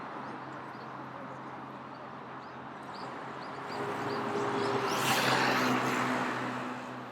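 City street traffic noise, with a motor vehicle passing close by: the sound swells about four seconds in, peaks, then fades, and its tone drops in pitch as it goes by. A run of short high chirps comes just before it.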